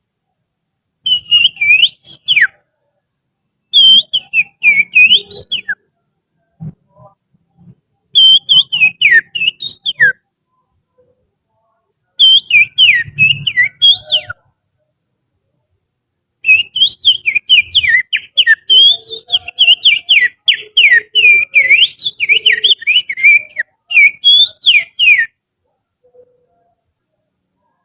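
Finger whistling imitating the chattering song of an oriental magpie-robin (kacer): quick, sliding whistled notes in five phrases separated by short pauses, the last phrase much longer than the rest.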